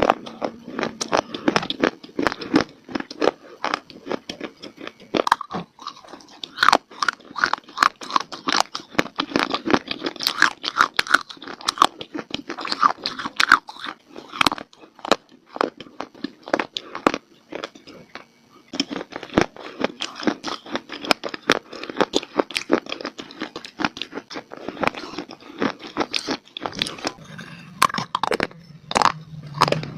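A person biting and chewing dry clay (mitti): dense, crisp crunching and cracking many times a second, thinning out briefly about two-thirds of the way through.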